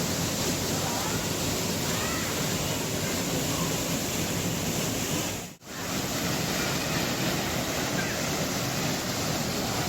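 Steady rush of a waterfall's falling water, with a brief dropout a little past halfway before it resumes unchanged.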